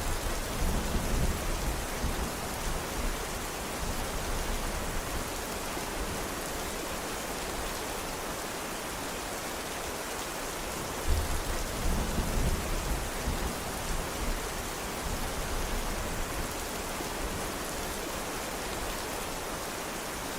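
Steady rain falling, with low thunder rumbling twice: once at the start, and again about eleven seconds in, each roll fading over a few seconds.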